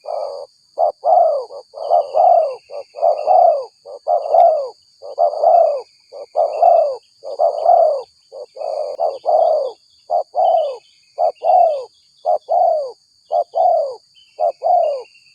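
Spotted dove (tekukur) cooing in a fast, unbroken run of short coos, about two a second. This is the aggressive call used as a lure. Fainter high chirps from small birds and a steady high insect drone sit behind it.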